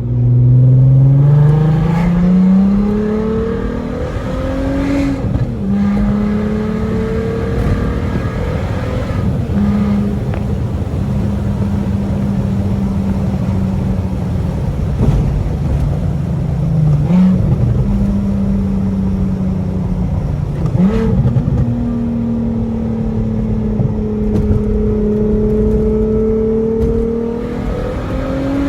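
2.8-litre 24-valve VR6 engine of a Mk4 Jetta GLI heard through its exhaust with the rear muffler deleted (stock resonator and catalytic converter kept), pulling under acceleration. The note climbs over the first few seconds, drops sharply at a gear change about five seconds in, then holds fairly steady with two brief dips, and climbs gently again before dropping near the end.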